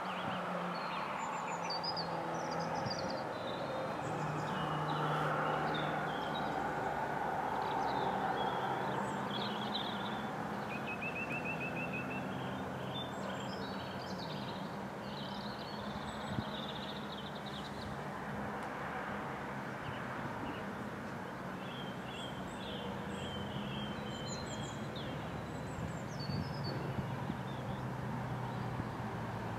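Small birds chirping and singing over a steady low mechanical hum and a background rumble of distant traffic or machinery.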